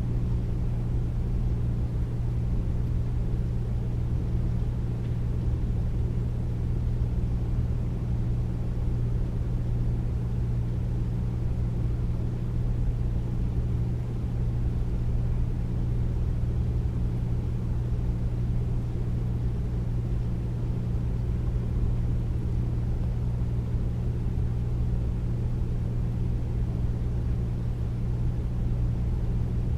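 Air conditioner running steadily: a deep, even hum with a low rumble, unchanging throughout.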